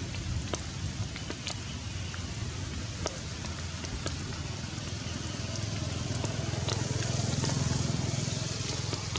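Heavy rain falling steadily, with scattered close drops tapping sharply. A low rumble swells up about six seconds in and fades again near the end.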